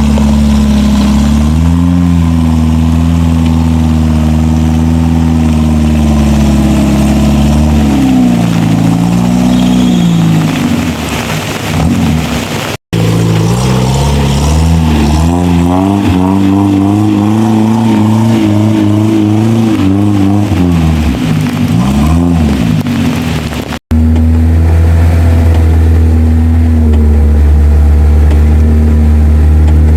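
Suzuki 4x4's engine working off-road, its revs rising and falling as it climbs and eases off, with steadier running at the start and end. The sound cuts out abruptly twice.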